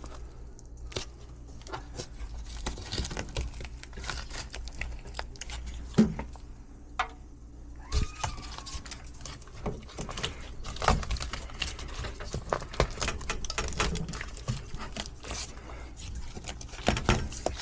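Scattered clicks, taps and rustling of hands and tools working at the casing and taped-over coil of an indoor air-conditioning unit, with a sharper knock about six seconds in and another about eight seconds in, over a steady low hum.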